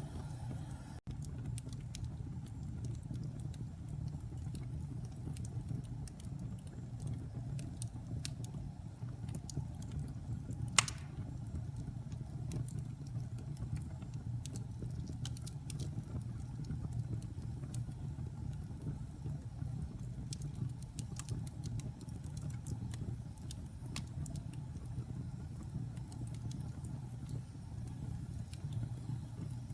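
Wood fire burning in a fireplace: a steady low rumble of flames with scattered small crackles and one sharp pop about eleven seconds in.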